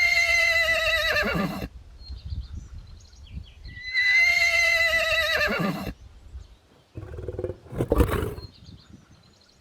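Horse whinnying twice, each a loud, high, quavering neigh about two seconds long that drops sharply in pitch at the end. A shorter, rough, noisy sound follows about seven seconds in.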